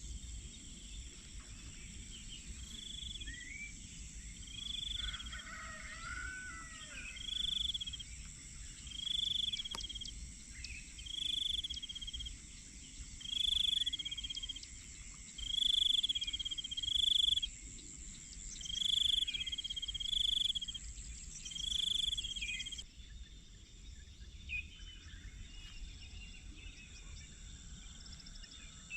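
Dawn nature ambience: insects drone steadily in a high pitch while a bird repeats one clear whistled note about every two seconds, sometimes twice in a row, with faint chirps from other birds. The insect drone stops abruptly about three-quarters of the way through.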